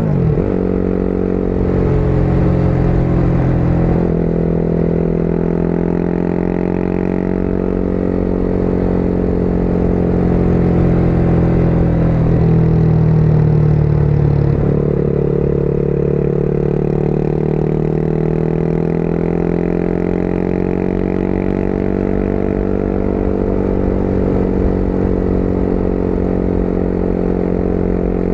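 Motorcycle engine running under way, its note rising and falling with the throttle and dropping suddenly in pitch about four seconds in and again about halfway through.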